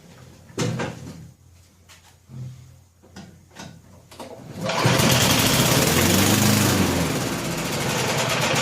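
A few short, soft knocks, then the Snapper walk-behind mower's small Tecumseh engine fires about five seconds in and runs loudly and steadily after being primed.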